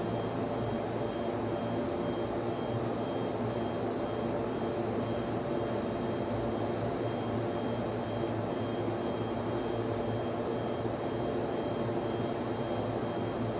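Steady whir and hum of server-room equipment: rack fans and cooling running at an even pitch, with several steady hum tones and a faint high tone that pulses on and off evenly.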